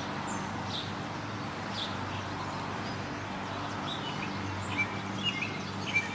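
Small birds chirping now and then, with a cluster of short whistled notes near the end, over a steady low hum.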